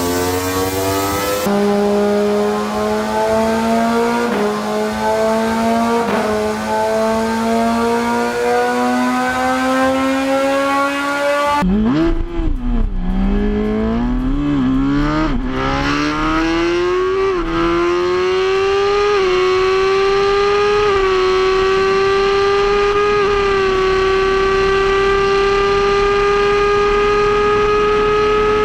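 Sport motorcycle engine at full throttle, pitch climbing through the gears with brief dips at each upshift, in clips cut together. After a cut about twelve seconds in, a fresh run climbs quickly through several shifts, then holds a high, nearly steady note at top speed.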